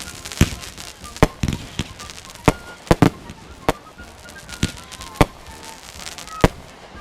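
Fireworks going off: an irregular string of sharp bangs, about eleven in seven seconds, a few coming in quick pairs.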